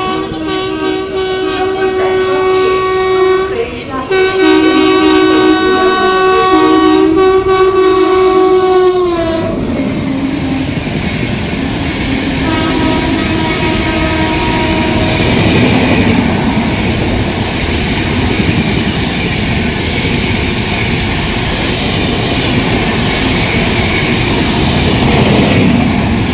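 A WAP7 electric locomotive sounds a long multi-tone horn with short breaks, and the horn drops in pitch as the locomotive passes, about nine seconds in. Then the express's coaches rush past with a steady loud rolling noise.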